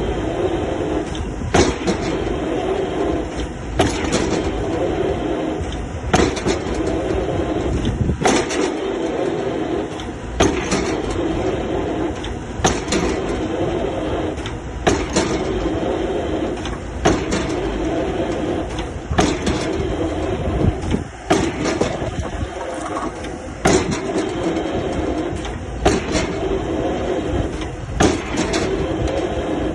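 Excavator drop hammer striking the top of a square concrete pile, one sharp blow about every two seconds, driving the pile into the ground. Between blows the excavator's engine runs steadily.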